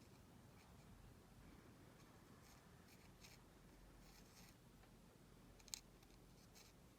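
Near silence, with a few faint short scratchy handling sounds of glue being applied to the paper and fabric, and one sharper tick a little before the end.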